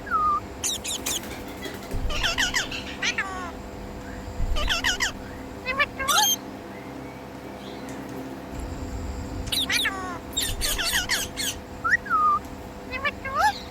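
Ringneck parakeet calling in repeated bursts of harsh squawks and short calls that fall in pitch, with a pause of a couple of seconds midway.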